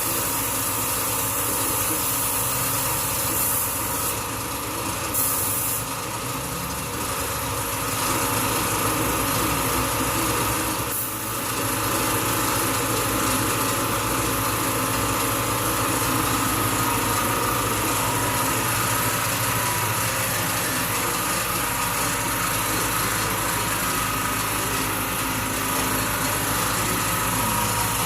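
A small motor-driven machine running steadily, with a constant hum and hiss and a brief dip about eleven seconds in.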